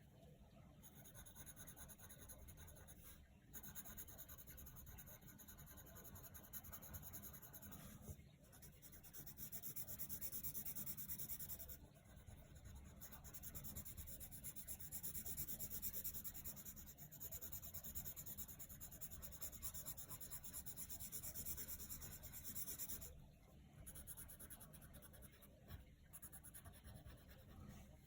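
Coloured pencil scratching on paper in long, continuous shading strokes, stopping briefly a few times, over a faint, steady water sound.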